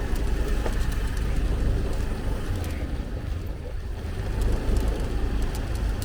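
Motorbike running as it is ridden, a steady low rumble.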